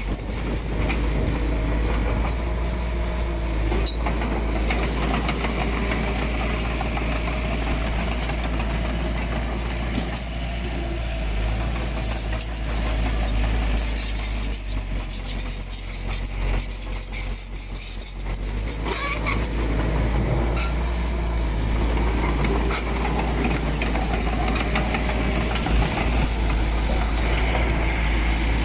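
Diesel engine of heavy earthmoving machinery running with a steady low rumble. In the middle it thins for a few seconds under scattered metallic clinks and rattles, then comes back fuller.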